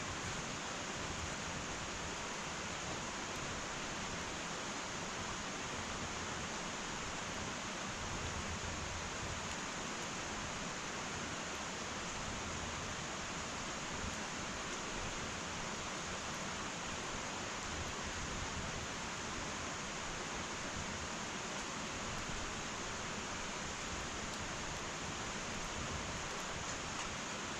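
Wood fire burning in an irori hearth: a steady, even hiss with no loud crackles or pops.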